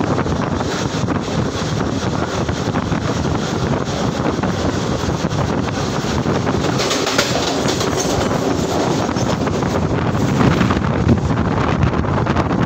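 Mumbai suburban electric local train running fast, heard from its open doorway: a steady rumble of wheels on the rails with wind buffeting the microphone, while another local train rushes past close by on the next track for much of the time.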